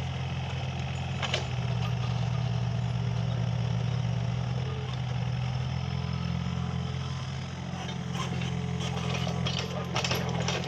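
Mini excavator's diesel engine running steadily. A sharp click about a second in, and a string of clicks and knocks over the last few seconds.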